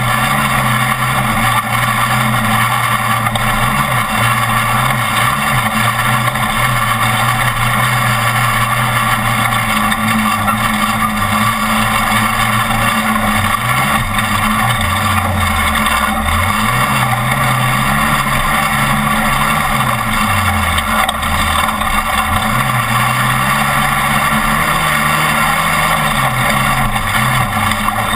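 Off-road race truck's engine running hard over constant road and wind noise, its revs dropping and climbing back twice midway through.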